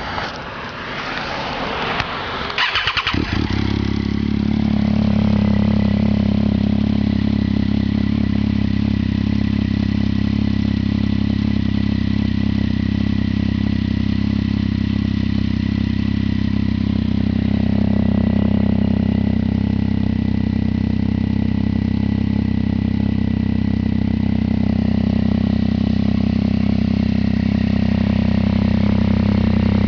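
2009 Triumph Street Triple R's 675 cc three-cylinder engine, running through an Arrow exhaust with the db killer removed. It is cranked and catches about three seconds in, its revs drop back over the next couple of seconds, and it then idles steadily and loudly.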